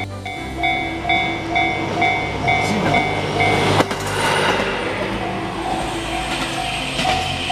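Level-crossing warning bell ringing about twice a second. About four seconds in, a single-car diesel railcar passes with loud running noise while the bell keeps ringing.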